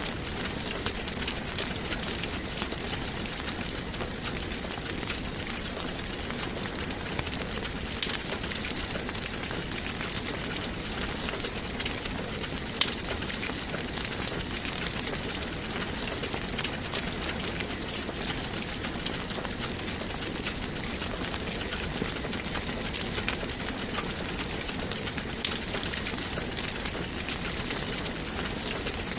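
Wood fire crackling in a fireplace: a steady hiss full of small pops and snaps, with one sharper crack about halfway through.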